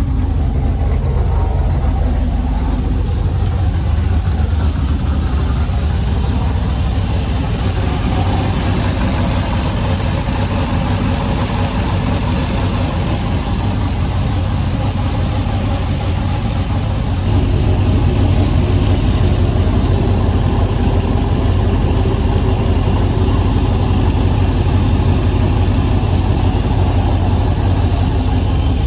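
2006 Pontiac Grand Prix GXP's 5.3-litre V8 idling steadily after a cold start on E85 fuel. About two-thirds of the way through, the sound gets a little louder and fuller.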